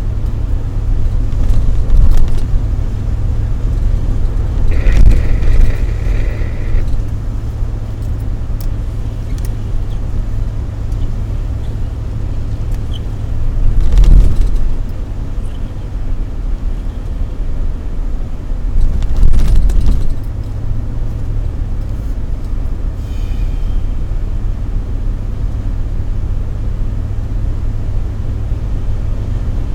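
Car driving on a road: a steady low rumble of engine and tyres, swelling louder a few times, with a brief high tone about five seconds in.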